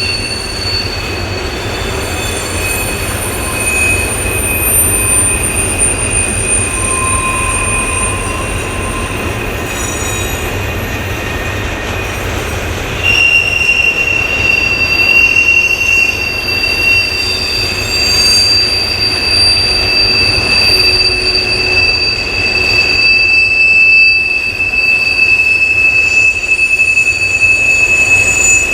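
Wheel squeal from an empty freight train's cars rolling through a tight connecting curve: steady high-pitched squealing in several tones at once over the low rumble of the wheels. The squeal grows louder about halfway through.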